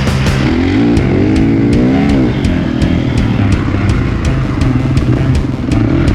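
Kawasaki KX450 motocross bike's four-stroke single-cylinder engine revving up and down as it is ridden, with a rev rising about two seconds in and then falling away. Background music with a steady beat plays along with it.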